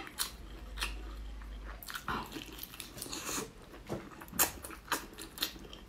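Close-miked chewing and biting of braised pork intestine rings, with many sharp wet mouth clicks and smacks. The chewy meat is also pulled apart by hand.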